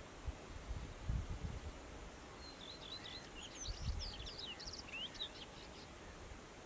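Male whinchat singing one song phrase of quick, varied high chirps and short trills, starting a little over two seconds in and lasting about three seconds. A few low rumbling thumps come and go underneath.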